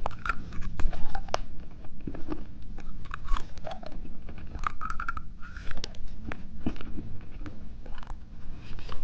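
A person chewing watermelon bubble gum close to the microphone, with irregular wet clicks and crunches of the mouth.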